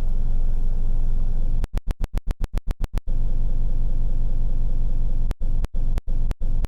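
Steady low rumble of a car engine idling. The sound is broken by rapid brief cut-outs, about seven a second a little under two seconds in, and about three a second from about five seconds in.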